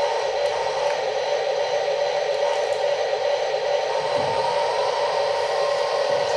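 Small electric motors and gearboxes of remote-control toy construction machines whirring steadily.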